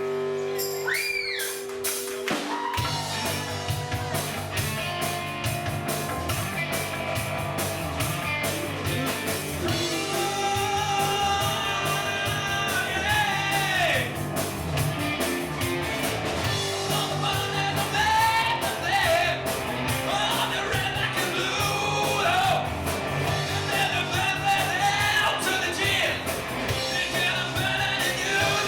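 Rock band playing with a singer. A held chord comes first, the drums and bass come in about three seconds in, and the vocals join around ten seconds in.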